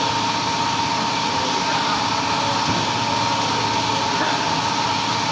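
A machine running steadily with a constant high whine over a wide, even mechanical noise.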